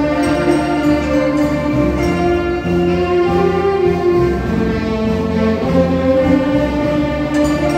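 Instrumental music from a band, with a held, gliding melody line over a steady bass part.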